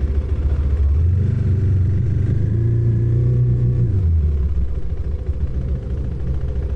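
Motorcycle engine running while riding, with a heavy low rumble; its pitch rises from about a second in and drops back near four seconds in as the throttle comes off.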